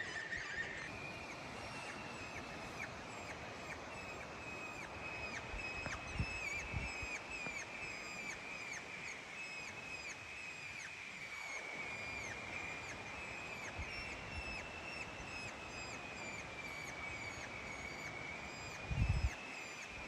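Electronic predator caller playing a high-pitched animal call: a continuous wavering whine with rapid, evenly repeated short falling chirps over it. A low thump near the end.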